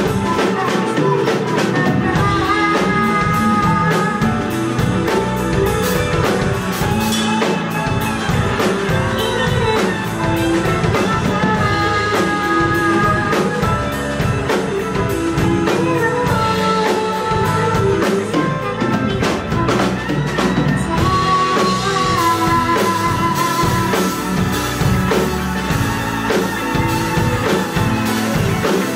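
Live band music with a drum kit keeping a steady beat under guitar and held melody lines.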